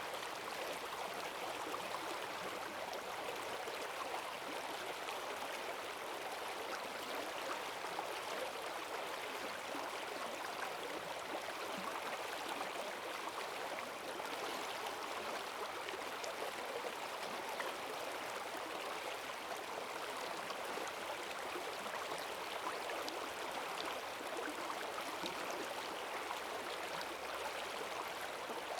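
Forest stream swollen by heavy rain, rushing and splashing steadily with a strong current.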